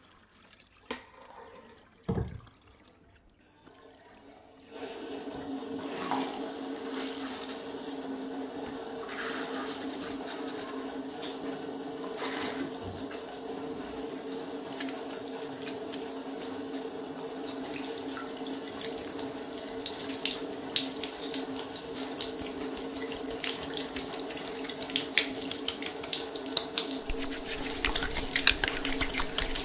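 A few soft clicks and knocks, then about five seconds in a shower comes on and sprays steadily, rinsing shampoo out, with dense spattering of water drops that gets louder near the end.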